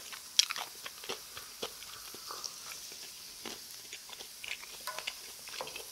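Close-miked chewing and mouth sounds of a person eating: irregular wet clicks and smacks, the loudest about half a second in.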